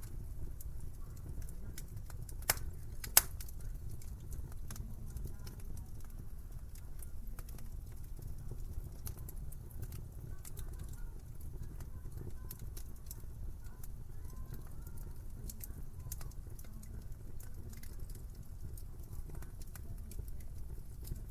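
Wood fire crackling in a fireplace: a steady low rumble with scattered sharp crackles, and two louder pops about two and a half and three seconds in.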